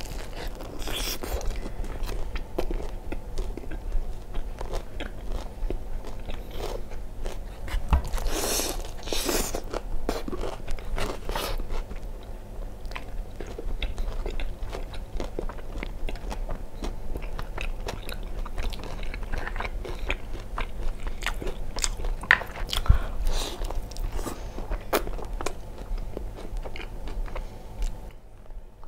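Close-up biting and chewing of crispy breaded fried chicken (Jollibee Chickenjoy), with irregular crunches of the skin throughout.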